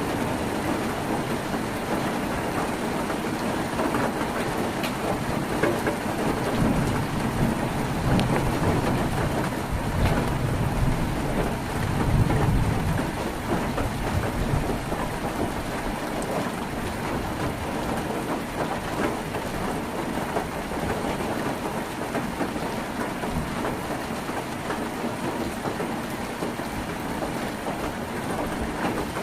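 Heavy rain drumming steadily on a tin roof. A low rumble swells in the middle and peaks about twelve seconds in, then settles back to the steady rain.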